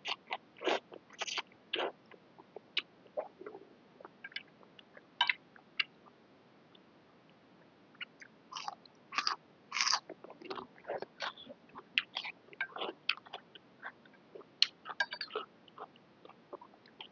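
A person eating noodle soup with wet chewing and smacking mouth sounds in irregular spurts, with a pause of a couple of seconds near the middle.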